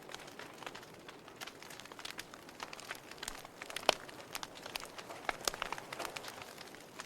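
Wood fire crackling in a fireplace: irregular pops and snaps over a soft hiss, with one sharper pop about four seconds in.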